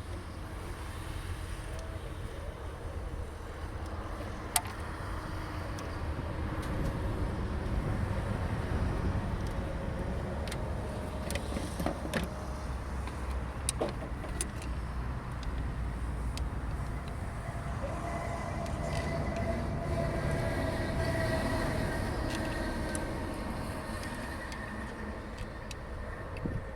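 Road traffic passing: a steady low rumble that swells as vehicles go by, around eight seconds in and again around twenty seconds, with a few sharp clicks scattered through it.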